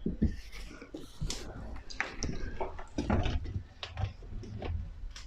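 Handling noises from a built-in dishwasher being adjusted for height: a string of short clicks, knocks and scrapes.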